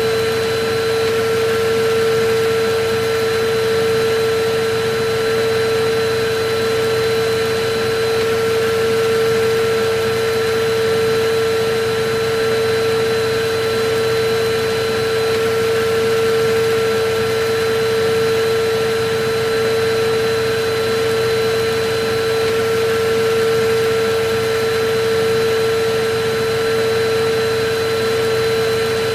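Vacuum cleaner running steadily: a constant motor whine over an even rush of airflow noise, with a fainter higher tone above it.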